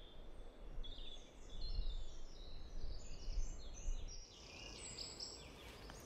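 Songbirds singing, a jumble of short, high, overlapping notes, many stepping downward, over a low background rumble.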